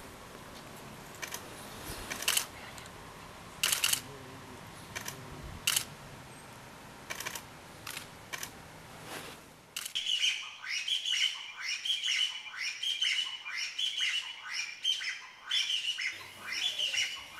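A few scattered sharp clicks over faint hiss. Then, about ten seconds in, a Taiwan bamboo partridge starts calling: a loud, fast run of repeated falling notes, about two a second, that keeps going.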